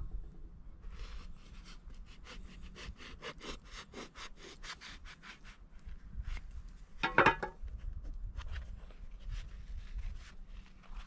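A quick run of rough scraping or rubbing strokes, about four a second for a while, with one louder sharp knock about seven seconds in.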